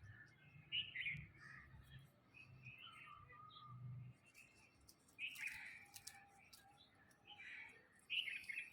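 African grey parrot giving short chirps and whistled calls, one about a second in and a cluster in the second half, with faint clicks in between.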